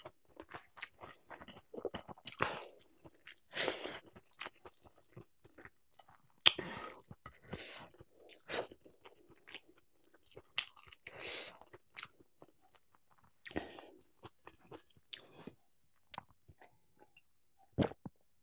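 A person eating close to the microphone: irregular chewing and crunching, with many short bites and mouth clicks.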